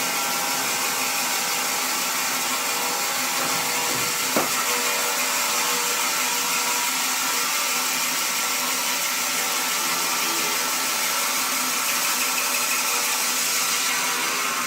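A woodworking machine running steadily with a high, even whine and several held tones, and a single sharp knock about four seconds in.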